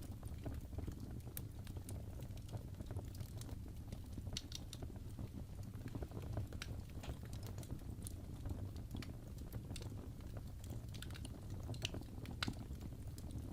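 Fire burning in a fireplace: a steady low rumble of flames with irregular sharp crackles and pops, which cluster a little about a third of the way in and again near the end.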